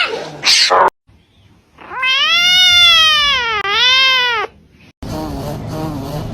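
A domestic cat giving one long, drawn-out yowl that dips in pitch and rises again, after a short harsh noisy burst in the first second. A steady noise takes over near the end.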